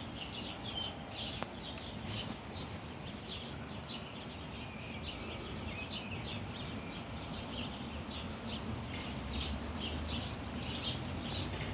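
Small birds chirping over and over in quick short notes, over a steady low rumble that grows slightly stronger near the end.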